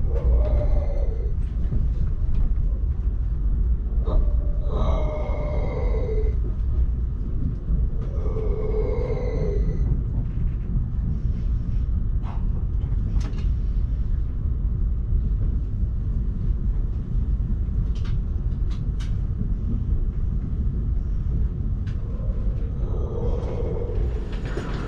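Steady low rumble of an ÖBB Railjet train running on the rails, with two brief higher-pitched whining tones about four and eight seconds in and a few sharp clicks in the middle.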